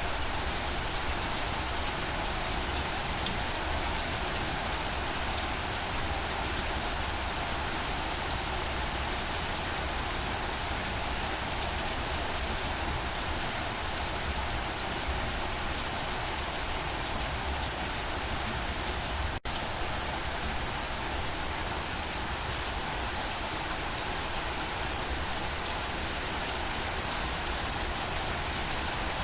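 Steady rain falling, a dense even patter with no distinct drops standing out. It cuts out for a split second about two-thirds of the way through, then carries on unchanged.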